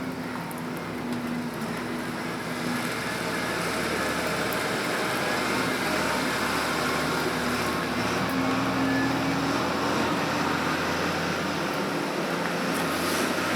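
A vehicle engine running steadily, with a wavering hum. It grows a little louder over the first few seconds as the vehicle draws near, then holds.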